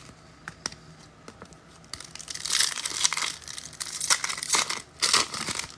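Foil trading-card pack wrapper crinkling and being torn open. It comes in two bursts of crackly noise, starting about two seconds in, after a few light ticks of handling.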